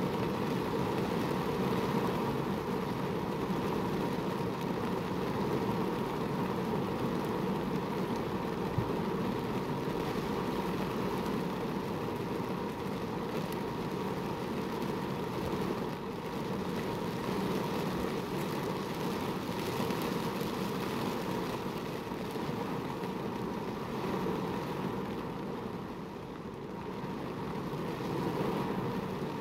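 Heavy rain falling on a car's roof and windshield, heard from inside the cabin as a steady, even noise.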